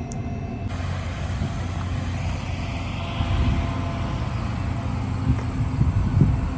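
Farm machine's diesel engine running steadily with a low rumble, with a few louder knocks near the end.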